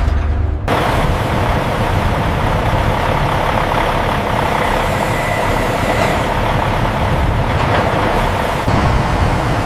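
Steady, loud machine noise with no clear rhythm or tone, starting abruptly under a second in.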